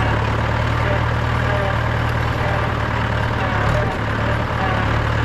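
Mahindra 475 DI tractor's 2730 cc four-cylinder diesel engine running steadily with a deep, even hum, dipping briefly a little under four seconds in.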